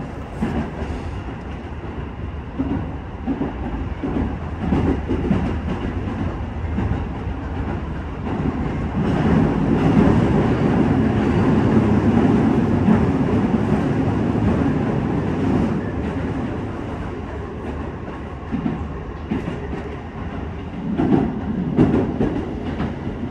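Keisei Main Line local commuter train running, heard inside the carriage: a steady rumble of wheels on the rails with occasional knocks. The rumble grows louder from about nine seconds in, holds for several seconds, then eases off.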